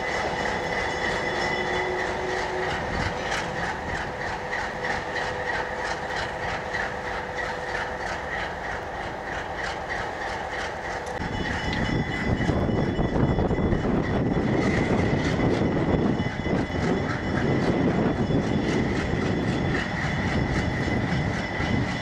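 A train rolling past, its wheels clicking over the rail joints in a steady rhythm, with a high steady whine running underneath. About eleven seconds in it grows louder and fuller in the low end.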